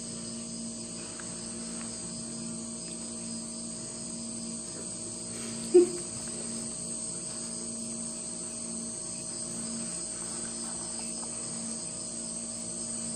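A steady high-pitched whine over a low hum, with one brief, loud, pitched chirp about six seconds in.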